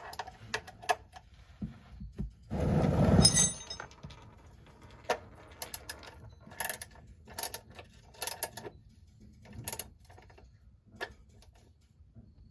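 Metal hand tools clicking and clinking in a string of sharp, uneven knocks, with one louder scraping rush lasting about a second near the start.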